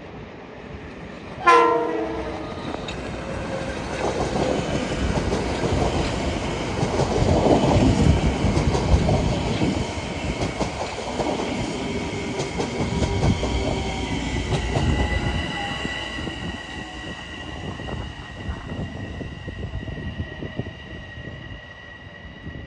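Train passing: a short horn blast about a second and a half in, then wheels clattering over the rail joints, building to a peak midway and fading away, leaving a steady high whine near the end.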